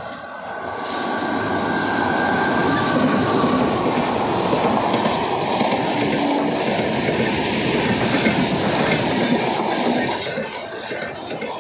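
An Indian Railways train passing close by: a loud, steady rumble and clatter of wheels on the rails that builds over the first second and eases about ten seconds in. A horn's tones fade out over the first couple of seconds.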